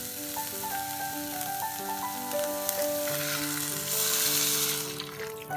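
Green beans and corn sizzling in a hot oiled wok. About four seconds in, water is poured into the wok and the sizzle briefly turns louder, over background music with a melody of held notes.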